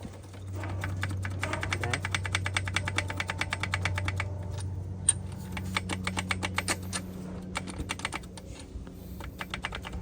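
Rapid, even clicking, about eight to ten a second for roughly four seconds, then scattered single clicks, over a steady low hum.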